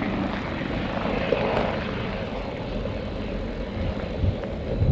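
Firefighting helicopter running overhead as it comes in to land. Wind buffets the microphone, with gusts near the end.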